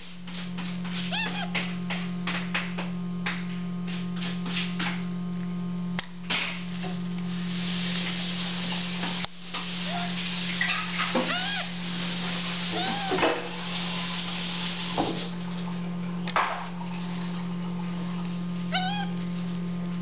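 African grey parrot chicks giving short, arched squeaking begging calls while being hand-fed, mostly in the second half, over a steady low hum. A quick run of clicks comes in the first few seconds.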